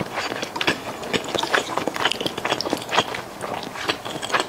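Close-up chewing of a mouthful of food: a dense, irregular run of wet mouth clicks and smacks.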